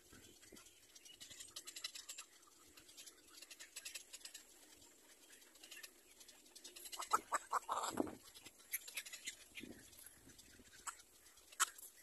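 Faint scattered ticks and rustles, then a short burst of harsh bird calls about seven seconds in.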